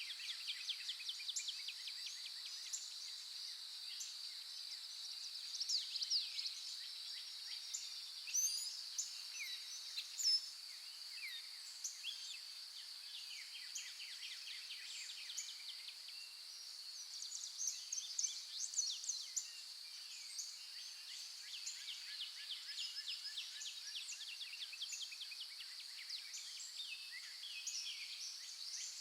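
Morning chorus of several songbirds, with overlapping chirps and quick trills throughout, over a steady high-pitched drone.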